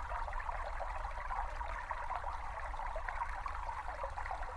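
Babbling brook: a small stream of water trickling and burbling steadily over stones, recorded in nature.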